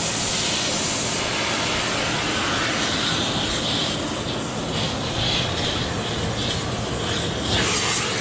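Blowtorch flame running with a steady hiss, heating a stuck differential bushing to free it.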